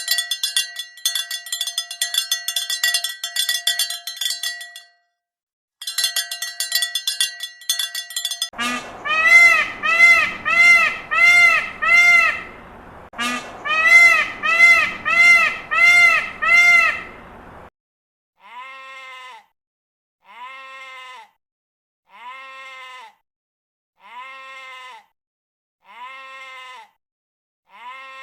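A bell jingles rapidly for several seconds. Then comes a run of repeated bleats, loud and quick at first, then quieter ones spaced about a second and a half apart.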